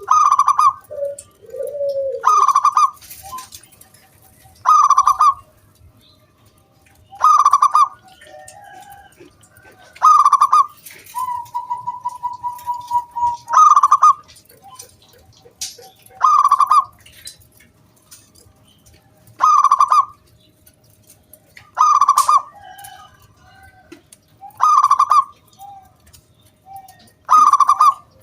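Zebra dove (perkutut) cooing: a loud, clear phrase repeated about every two to three seconds, eleven times. A rapid pulsing note sounds between two phrases about halfway through.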